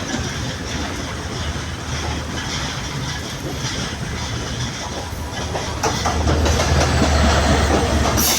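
Sri Lanka Railways Class S11 diesel multiple unit running along the track, its wheels clattering over the rail joints. The rumble gets louder and heavier about six seconds in.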